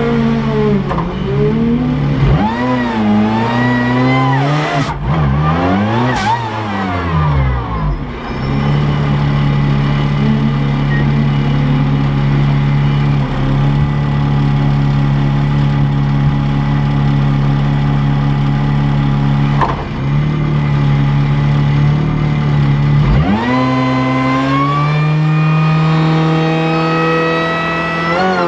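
Race car engine heard from inside the cabin. For the first several seconds it is revved in repeated throttle blips. It then idles steadily, and about 23 seconds in it is brought up to higher revs and held there, climbing slightly, as the car waits to launch.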